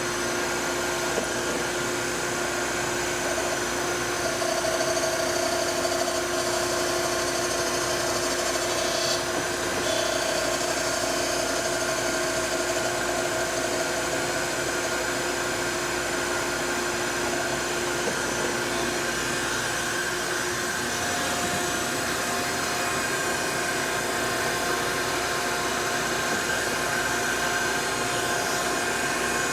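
Gallmeyer & Livingston No. 55 surface grinder running with a steady motor and spindle whine. A few held tones within the whine shift slightly about four seconds in and again about two-thirds of the way through.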